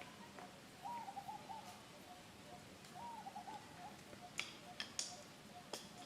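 Two short hooting animal calls about two seconds apart, each a quick rise then a broken falling trill. Under them runs a faint, evenly repeating pip, and a few sharp clicks come near the end.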